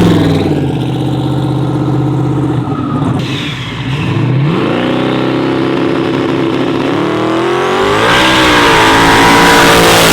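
Twin-turbo 4x4 truck accelerating hard on a test pull: the engine note climbs, drops around three to four seconds in as it shifts gear, then climbs again. A rushing hiss builds over the engine near the end.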